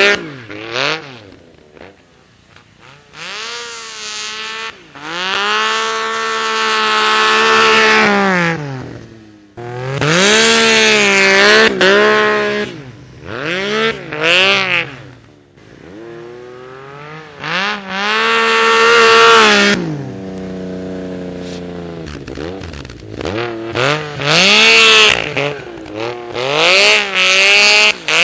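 Yamaha Nytro MTX snowmobile's four-stroke three-cylinder engine breathing through a Barker's slip-on exhaust, revving up and easing off about five times, with quieter lower-pitched stretches between the surges.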